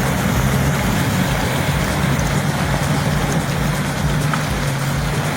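Heavy truck engine running steadily at one pitch over a loud, even rushing noise.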